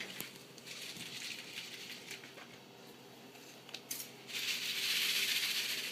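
Scattered light clicks and rattles, then about four seconds in a second or so of crinkly rustling, from the dryer vent duct being handled to get a trapped live bird out.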